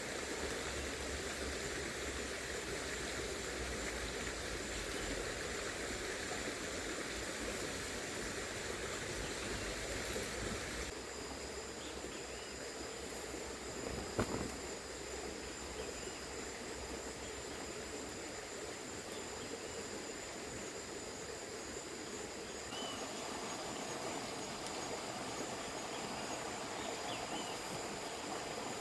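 Riverside woodland ambience: a small river running steadily, with insects trilling a constant high note. One sharp click about 14 seconds in.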